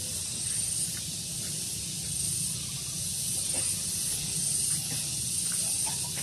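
Daytime outdoor ambience: a steady high hiss that swells and fades every second or so, over a low rumble of breeze, with a few faint ticks.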